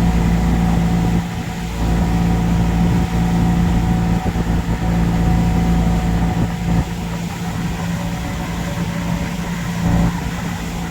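Boat engine running steadily under way, a loud even drone with a strong low hum.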